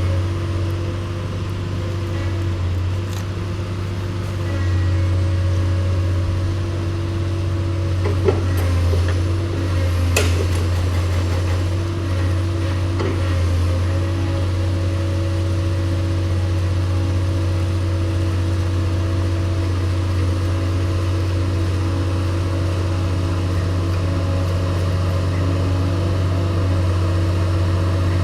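An engine running steadily at a constant speed, with a couple of sharp knocks about a third of the way in.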